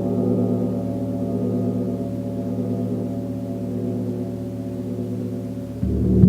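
A large gong ringing: a sustained, slightly wavering hum of many overlapping tones, slowly fading. Near the end it swells louder again, with a strong low tone coming up.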